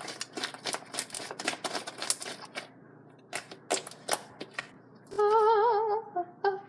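Foam-bead slime crackling and popping as it is squeezed and kneaded by hand: a rapid run of small clicks that thins out after about three seconds. About five seconds in, a girl hums a wavering tune, the loudest sound here.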